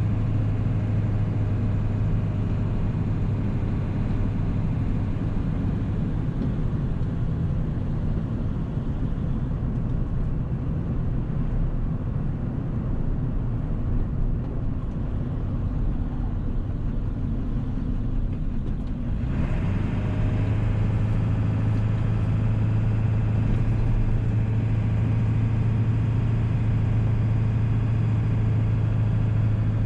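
1997 7.3 Powerstroke turbodiesel V8 running while the truck drives, a steady low diesel drone. The engine sound eases off for several seconds, then comes back fuller and louder about two-thirds of the way through.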